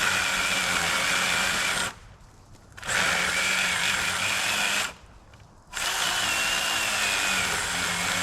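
Electric power tool running in three bursts of about two seconds each, with short pauses between, a steady motor whine, used to cut up a fallen rotten tree.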